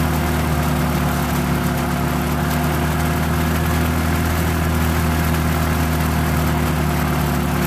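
Toyota 2ZZ-GE four-cylinder engine of a Corolla XRS idling steadily. It is running so the cooling system can warm up and purge trapped air after a thermostat replacement.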